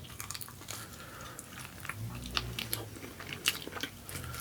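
A person chewing and biting food close to the microphone: irregular wet mouth clicks and small crunches, with a brief low hum partway through.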